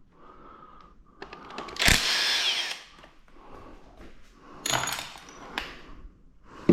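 Handheld power drill-driver run in two short bursts of about a second each, spinning bolts on an engine being torn down.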